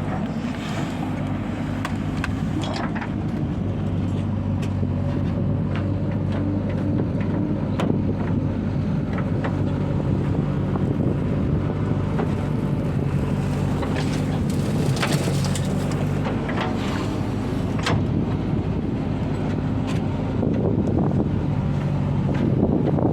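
Diesel engines of a backhoe loader and tractors running steadily, with scattered sharp knocks through the engine noise.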